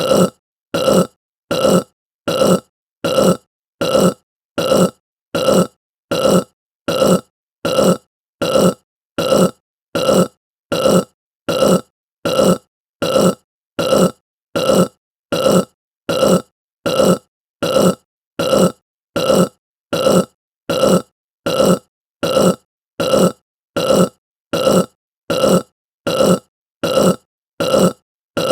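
A person's short burp repeated over and over at an even pace, about every three quarters of a second, each burp alike.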